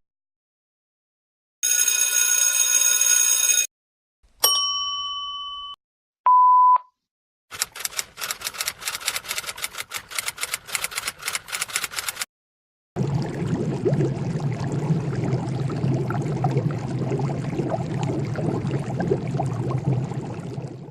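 A string of separate comedy sound effects with short silences between them. First a ringing, buzzing tone for about two seconds, then a bell-like ding that fades away, then a short censor beep. After that comes about five seconds of rapid crackling clicks, and finally a steady noisy sound over a low hum that runs to the end.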